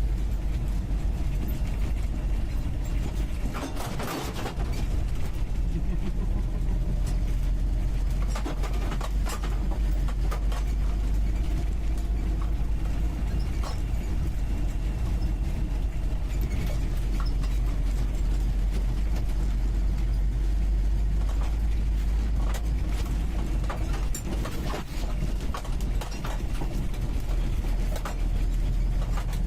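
UAZ 469B's four-cylinder petrol engine running steadily while the vehicle drives, heard from the passenger seat inside the cab, with frequent clicks and knocks over it. The engine sound dips briefly about four seconds in and again near the end.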